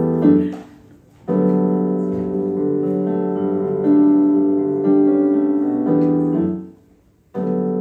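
Piano playing slow, held chords, each left to ring for a few seconds with short breaks between: the instrumental introduction to a song.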